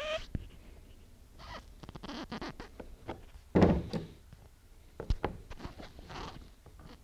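Pliers working on a metal trim strip, crimping staples over: light clicks and handling rustles, a loud dull thunk about halfway through and a sharp tap about a second and a half later.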